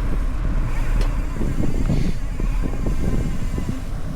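Mountain bike riding over a dirt trail: a steady low wind rumble on the camera microphone, with frequent short knocks and rattles from the bike over bumps.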